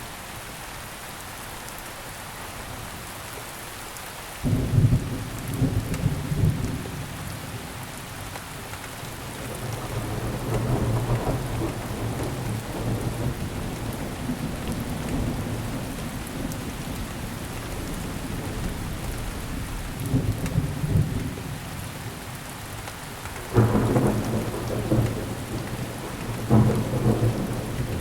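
Steady rainfall on surfaces with thunder: a sudden thunderclap about four seconds in, a long low rumble in the middle, and two more sharp claps rolling into rumbles near the end.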